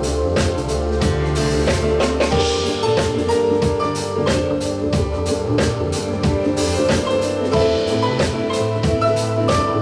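A live band playing, with a drum kit keeping a steady beat under bass and held melodic notes.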